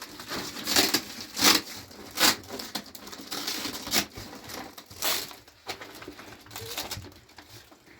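Plastic sheeting crinkling and rustling as it is handled, with several sharp crackles spread irregularly through the stretch.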